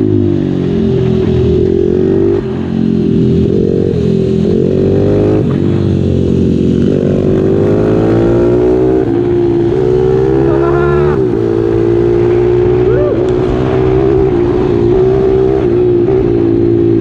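A 140cc pit bike's single-cylinder engine running under way, its pitch climbing and dropping several times as the rider works the throttle and changes gear, then holding fairly steady near the end.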